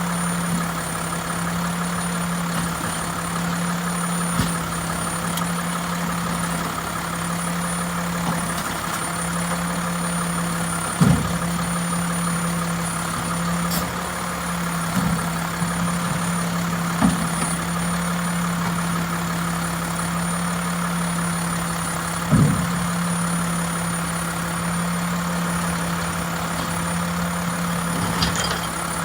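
Heavy diesel engine of a Mack LEU recycling truck idling steadily, with occasional thumps and bangs from the collection work, three of them louder than the rest.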